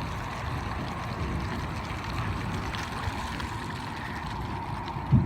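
Steady rain and wind from a passing storm, a continuous hiss with low rumble from the wind on the phone's microphone.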